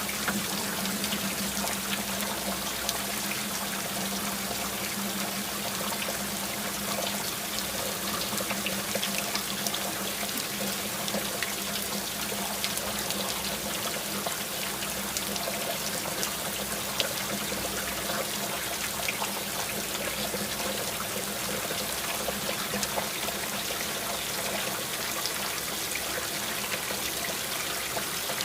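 Steady rain falling, a dense, even patter of drops with a faint low steady hum underneath.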